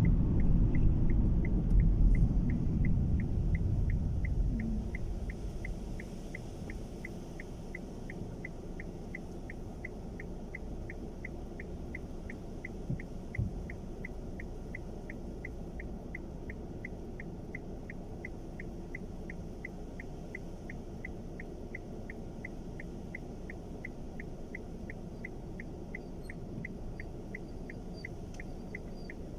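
A car's turn-signal indicator ticking in an even, fast rhythm inside the cabin, over low engine and road rumble that is loud for the first few seconds and then settles to a quieter hum as the car slows.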